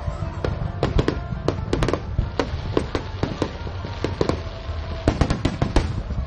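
Fireworks going off: a fast, irregular string of sharp bangs over a low rumble, bunching into quick volleys about two seconds in and again near the end.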